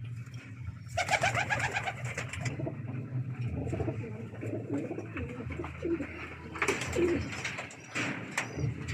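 A loft full of racing pigeons cooing steadily, many birds at once, with louder, noisier moments about a second in and again near the end.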